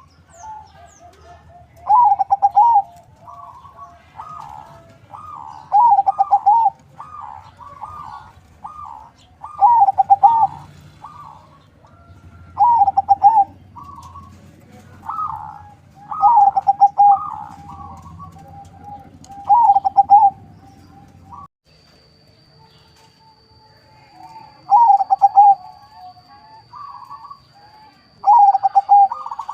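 Zebra dove (perkutut), a local × Bangkok crossbreed, singing its cooing song over and over: a loud rolling coo phrase about every three to four seconds, with softer coos in between.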